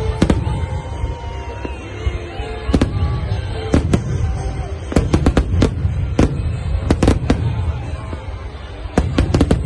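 Aerial firework shells bursting in an irregular string of sharp bangs over a steady low rumble, with a quick cluster of bangs near the end.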